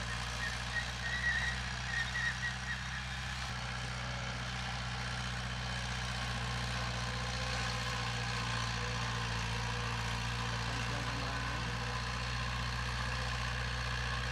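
Heavy diesel construction machinery running steadily, with a reversing alarm beeping repeatedly during the first few seconds.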